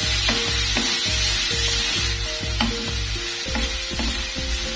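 Shredded chicken and garlic sizzling in hot oil in a wok while being stirred, with light scrapes and clicks of the spatula against the pan.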